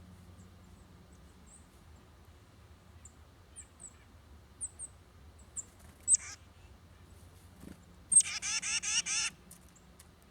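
Small songbirds calling: a series of thin, very high chip notes, a louder note about six seconds in, then about a second of loud, harsh, rapidly repeated scolding notes beginning with a high note, in the manner of a chickadee or titmouse call.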